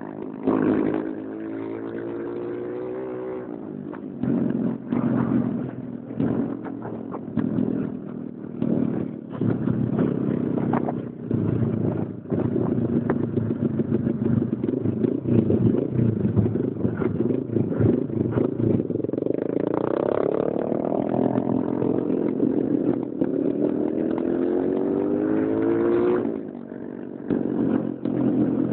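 Motorcycle engine running at road speed, its pitch rising twice as it accelerates, about two-thirds of the way in and again toward the end, then dropping off sharply. Irregular gusts of wind noise break in throughout.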